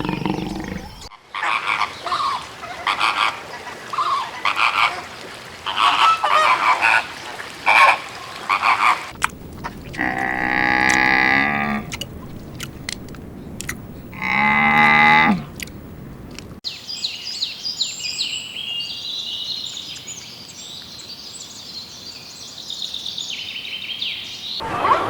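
Animal calls in three abruptly joined sections: a run of short croaking calls repeated a couple of times a second, then two long pitched calls, then high thin chirping.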